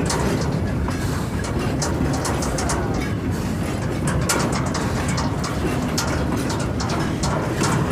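Small open rail wagon rolling along the track, a steady low rumble of wheels on rail with frequent sharp clicks and rattles.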